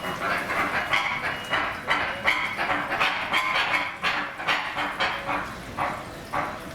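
An animal calling over and over in quick succession, roughly three short calls a second, then thinning out near the end.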